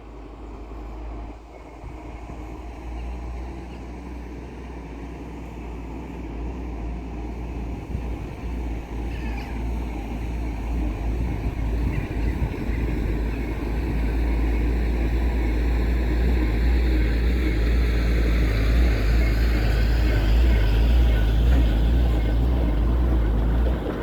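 Vehicle driving with a heavy low rumble of road and engine noise that grows steadily louder, the pitch climbing toward the end as it gathers speed.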